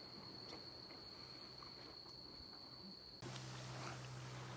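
Faint, steady, high-pitched insect trill at dusk that stops abruptly about three seconds in, giving way to a faint, even hiss with a low hum.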